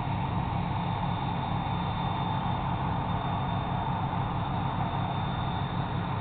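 Steady low rumble of a river towboat's diesel engines pushing a tow of barges.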